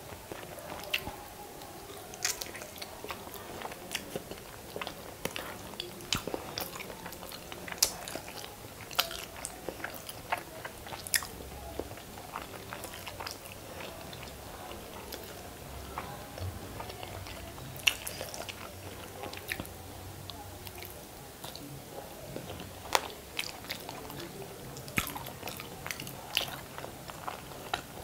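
Close-miked chewing of masala-coated hard-boiled eggs, with many irregular sharp, wet mouth clicks throughout.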